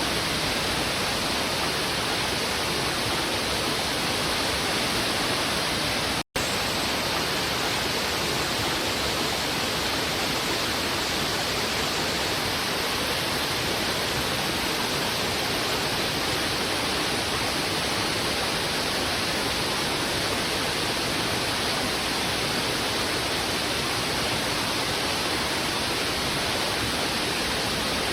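Fast, heavy river water rushing over rocks in a steady, unbroken rush. The sound cuts out for a split second about six seconds in.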